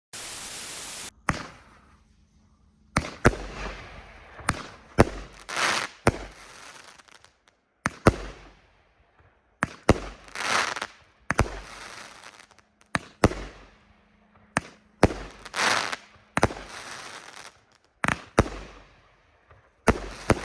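Consumer fireworks cake firing: about a second of steady hiss, then a string of sharp shots at one- to two-second intervals as the tubes launch and burst, many breaks trailing off in a fading crackle.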